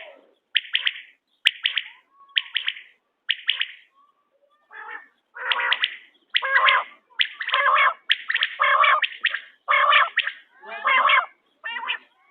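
Quail calling over and over in short, sharp bursts, about one call a second, with a brief pause about four seconds in and then fuller, quicker calls.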